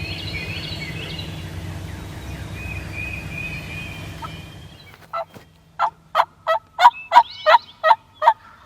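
Songbirds singing over a low steady hum, then, about five seconds in, a loud series of about nine turkey yelps, roughly three a second.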